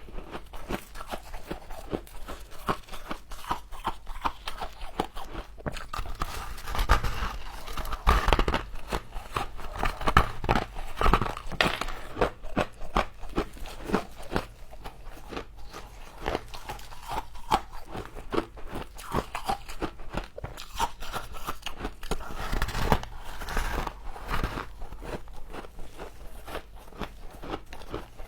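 Close-up crunching of frost being bitten and chewed: a continuous run of sharp crackles and crunches, loudest from about 7 to 12 seconds in and again near 23 seconds.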